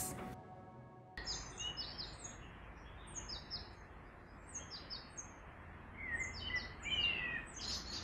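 Background music ends about a second in, giving way to small birds chirping over a steady outdoor hiss. The birds repeat many short, high notes, with a few lower, falling calls near the end.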